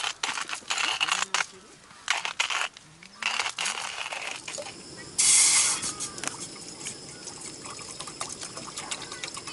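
Handling coffee-making gear: light clicks, taps and rustling, then a short loud pour about five seconds in, followed by a faint steady hiss with small clicks.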